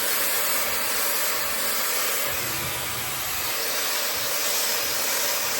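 High-speed brushless-motor hair dryer running steadily at speed, a constant rush of blown air with a thin, steady high whine above it.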